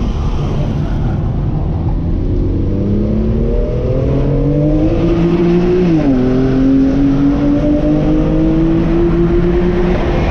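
BMW M2 CS's twin-turbo inline-six heard from inside the cabin, accelerating hard with its pitch rising steadily over tyre and road noise. About six seconds in the pitch drops sharply at an upshift, then climbs again.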